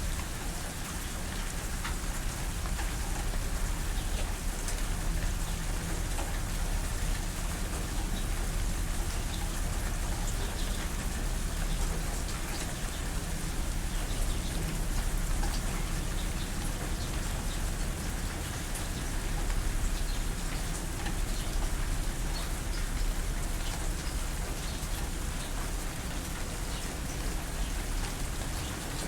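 Steady rain falling, with fine individual drops ticking on a surface over a continuous low rumble of rainfall.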